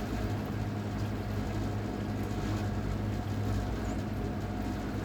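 Battery-electric boat drive running steadily under way: an even hum with a few held tones, over water and wind noise.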